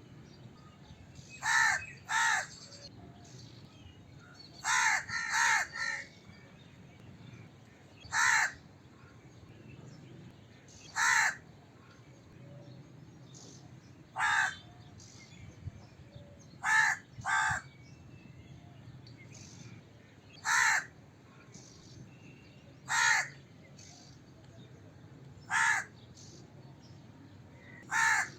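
Crow cawing: short harsh caws every two to three seconds, some single and some in quick pairs or a run of three, over a faint steady low background hum.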